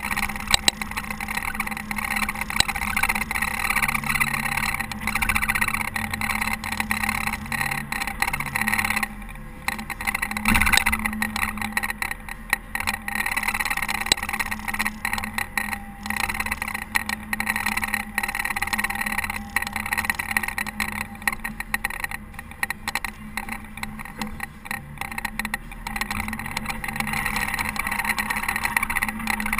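Caterpillar TH330B telehandler's diesel engine running steadily while snowplowing, dropping off briefly about nine seconds in, with a single knock just after.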